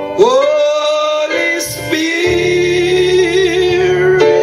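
A slow gospel worship chorus: a single voice sings the word 'Holy', sliding up into it and then holding it long with vibrato, over sustained keyboard chords.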